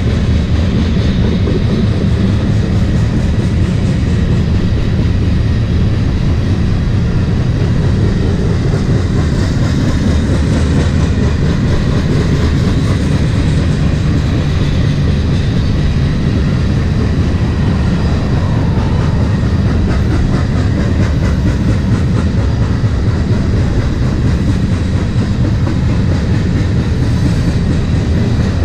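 Freight train of grain hopper cars rolling past at speed: a steady, loud rumble of wheels on rail with rapid clicking from the wheels over the rail, and a faint steady high ring from the wheels.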